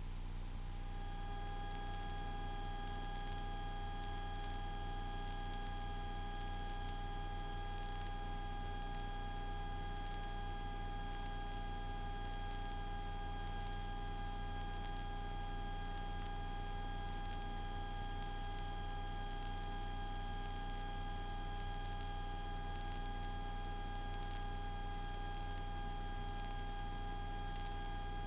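Steady hum inside a Cessna 172S Skyhawk cockpit in flight: a low drone with several fixed, high whining tones that hold constant throughout.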